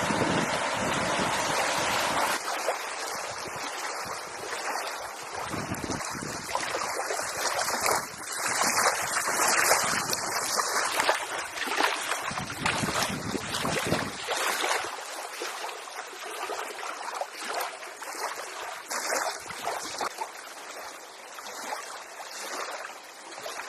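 Rushing storm noise of wind and water, swelling and easing in irregular gusts, with low wind rumble on the microphone in the first few seconds.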